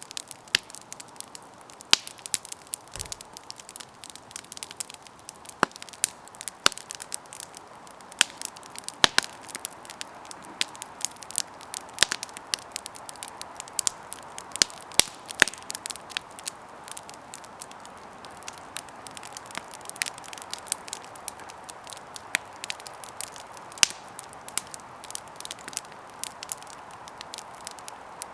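Campfire burning with a steady soft hiss and frequent irregular crackles and sharp pops of the wood.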